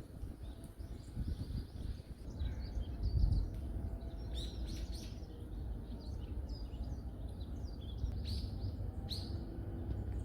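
Small forest birds chirping in short, high calls, scattered at first and clustering around four to five seconds in and again near the end, over a steady low rumble of background noise.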